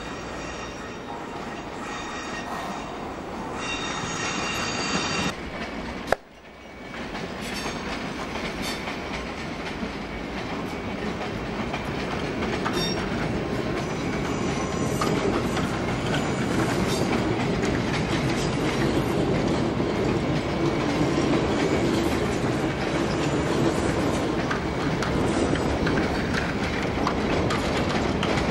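Electric multiple-unit trains rolling through a station's pointwork. For the first few seconds one approaches with a high-pitched whine over its running noise. After a sharp click and a brief drop about six seconds in, another rolls past with wheels clattering over rail joints, growing louder over the second half.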